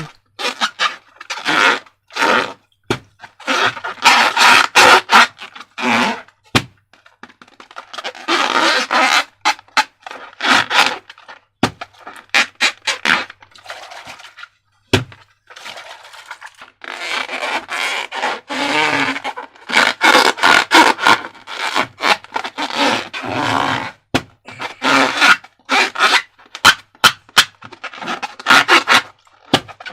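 Slime being handled with balloons, squished and worked by hand in irregular bursts of sticky noise with many sharp clicks.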